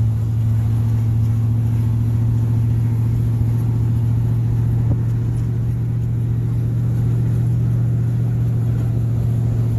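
Pickup truck driving at a steady speed of about 30 mph, a loud, even low drone of engine and road noise with no change in pace.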